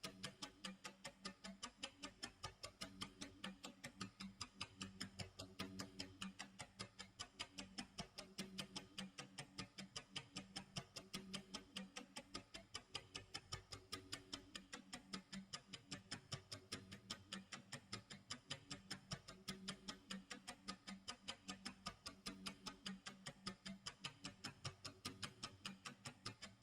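Clock tick-tock sound effect: faint, steady, evenly spaced ticks several times a second, over a low tone that swells and fades in a slow repeating pattern.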